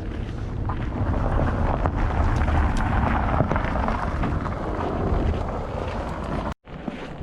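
A vehicle passing close by: a rumble and tyre noise that swells and then eases off, with crunching footsteps on snow. The sound drops out completely for a moment near the end.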